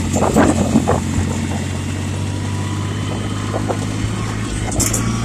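Yanmar compact tractor's diesel engine running steadily under load, with a few sharp knocks and crunches in the first second as the tractor breaks up the ice.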